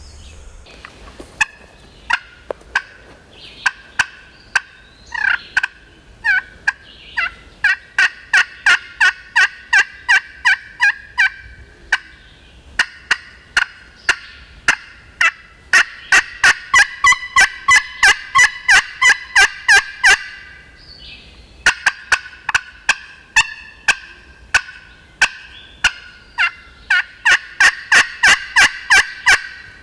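A turkey call yelping loudly in long runs of sharp, evenly spaced notes, about two to three a second, with brief pauses between sequences. A hen-turkey yelp is being used to try to strike up gobblers that have gone silent.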